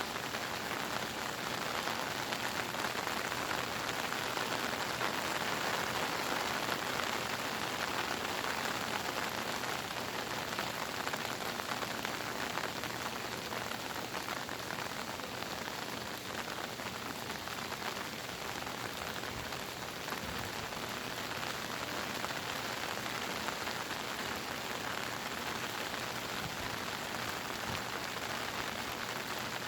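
Heavy monsoon-season rain pouring steadily, a dense patter of drops hitting surfaces.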